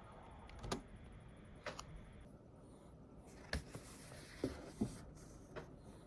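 About six scattered single clicks of computer keys and mouse buttons, unhurried with gaps between, over a faint steady room hiss.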